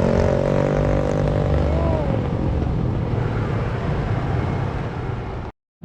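An engine running steadily with an even, droning pitch that eases down slightly at first, then cuts off suddenly near the end.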